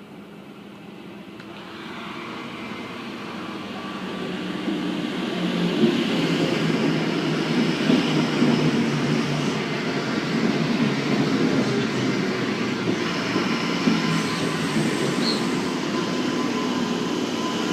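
Sydney Trains S-set double-deck electric train running into the station. The rumble grows loud over the first six seconds, then holds steady, with thin squealing tones from the wheels or brakes over it.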